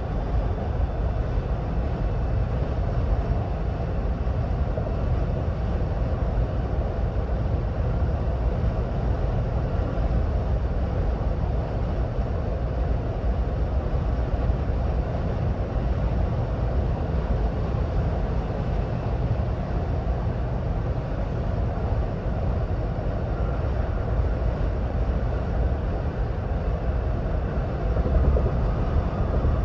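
Steady road and tyre noise with a low rumble from a 2026 Ford Bronco Badlands driving at highway speed.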